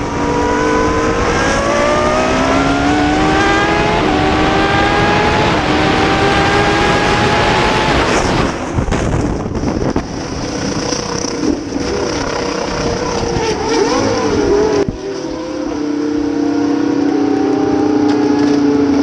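Racing car engines at full throttle, their pitch climbing steadily as the cars accelerate through the gears. About halfway through the sound breaks off and changes, and near the end the engines hold a steadier note.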